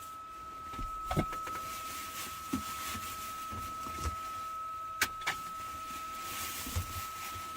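Scattered clicks and clinks of hand tools being handled and set down, a handful of separate knocks, over a steady thin high-pitched tone.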